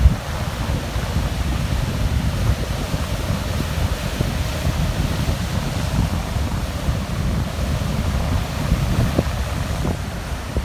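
Strong wind buffeting the microphone: a steady rush with a fluttering low rumble, easing slightly near the end.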